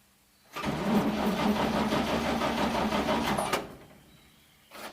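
1942 Chevrolet 1.5-ton truck's straight-six being cranked over by its floor-pedal starter for about three seconds without catching, the engine flooded. A short thump follows near the end.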